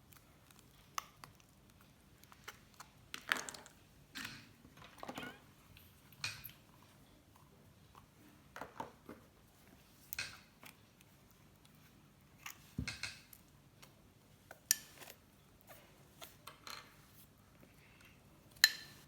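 Slime being handled and mixed: irregular small clicks, squishes and scrapes, with a few knocks against a container and a sharper click near the end.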